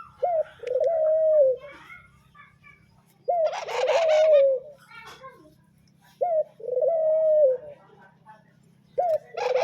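Pet bird calling: four two-part calls about three seconds apart, each a short rising note followed by a longer held note that drops at the end. A harsher, noisier sound overlaps the second and last calls.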